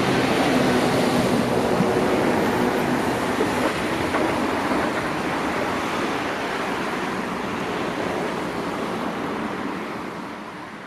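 BLS regional train rolling away along the station tracks, its wheel and running noise and a steady motor hum fading as it goes, the hum dying out after a few seconds.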